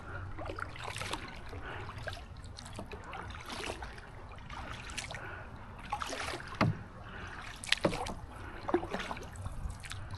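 Canoe paddle strokes in pond water: repeated dips and splashes with dripping, about one every second or so, the strongest near the end, over a steady low rumble.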